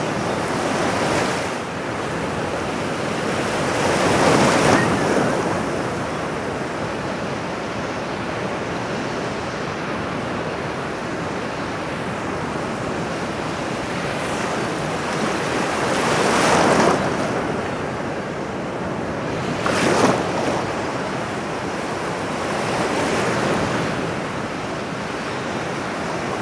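Ocean surf: a steady rush of water with several louder waves that swell and break.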